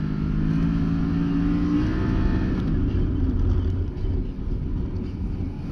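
Can-Am Maverick Sport X mr side-by-side's V-twin engine running under throttle. Its pitch climbs slightly for about two seconds, then breaks up into a rougher, lower drone.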